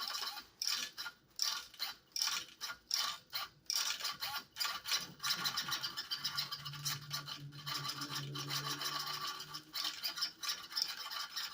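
A 30 kg RC steering servo whirring as it swings the front wheels back and forth, starting and stopping in quick bursts about twice a second at first, then running more steadily with a low hum in the middle.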